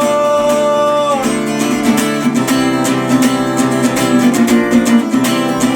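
Acoustic guitar strummed steadily through an instrumental gap in a song. A held note ends about a second in, and the chord strumming carries on.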